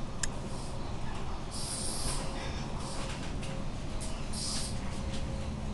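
Passenger train running, heard from inside the carriage: a steady low rumble of wheels on track, with a click just after the start and two short bursts of hiss, about one and a half and four seconds in.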